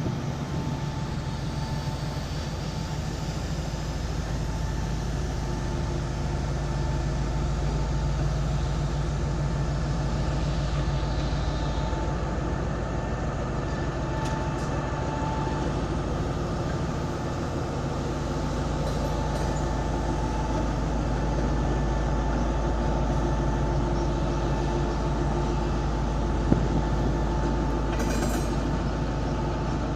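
Diesel locomotive engine running steadily, a low even hum with a constant tone over it. A single sharp click comes near the end.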